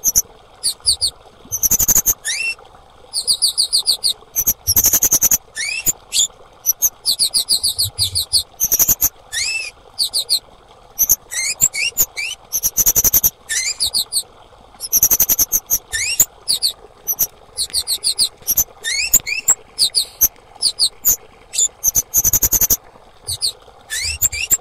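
Female kemade bird calling: quick bursts of very high, rapid chirps with short rising whistled notes, repeated over and over with brief gaps.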